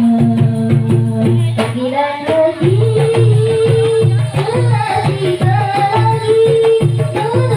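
Marawis ensemble playing: hand drums beat a fast, steady rhythm under long, drawn-out melodic notes that slide from one pitch to the next.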